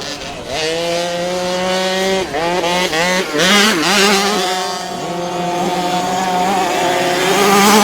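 Motocross dirt bike engine revving high under racing throttle. The pitch climbs steadily, wavers up and down for a couple of seconds midway as the throttle is rolled off and back on, then holds and rises again near the end.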